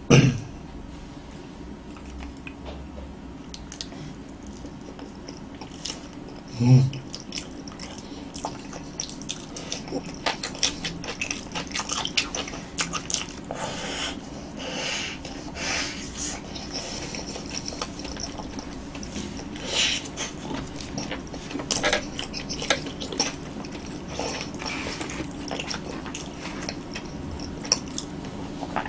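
Close-miked mouth sounds of eating roasted sweet potato and kimchi: soft, wet chewing and smacking with many small clicks. There are two brief louder low sounds, one at the start and one about seven seconds in.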